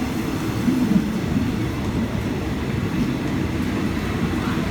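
Passenger train running on the track: a steady low noise from the carriage with a few faint clicks.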